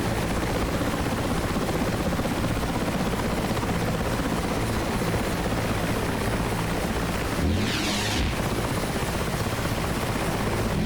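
Mil Mi-8 twin-turbine helicopter running steadily, rotor beat and turbine noise continuous. About seven and a half seconds in, a brief sweeping hiss cuts through the upper range.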